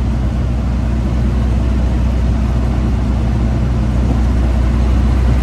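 Freightliner Classic XL semi truck's diesel engine running with a steady low drone, heard from inside the cab along with road noise.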